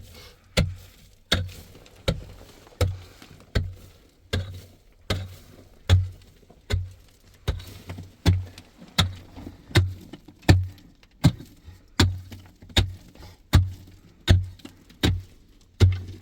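Steady, evenly spaced heavy blows, about four every three seconds, each a dull thud with a sharp click on top.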